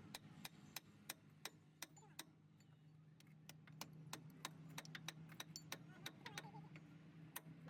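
Faint, irregularly spaced sharp clicks and light taps, a couple each second, over a low steady hum.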